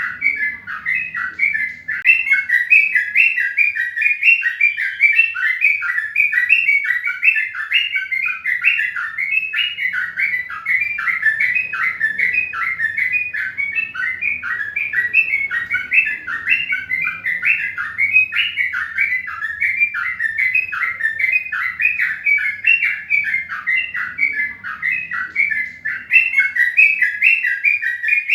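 Small birds chirping continuously in a dense, overlapping chatter of short, quick chirps that never pauses.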